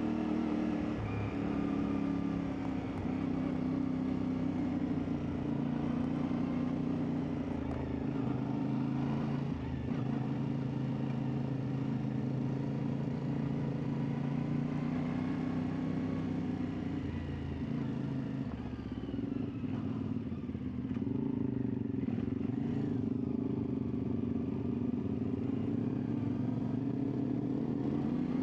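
CFMoto 450MT's parallel-twin engine running while the bike is ridden off-road, its pitch shifting with the throttle. It eases off about eighteen seconds in and picks up again a few seconds later.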